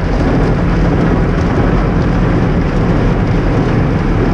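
Coleman Hanna tunnel car wash equipment working on a car, heard from inside the cabin: low side brushes scrubbing the body and arches spraying wash chemicals, a loud, steady rushing noise.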